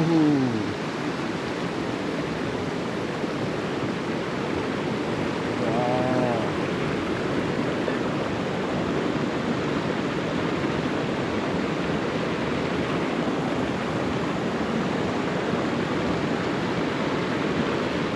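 Mountain stream running close by: a steady rush of water.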